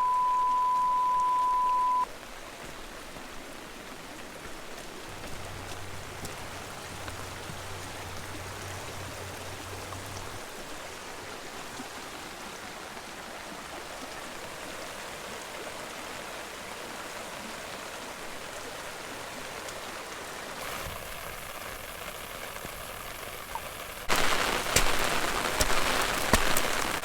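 A steady beep tone for the first two seconds, then steady rain. About 24 s in, the rain becomes much louder, with dense drop ticks striking an umbrella close overhead.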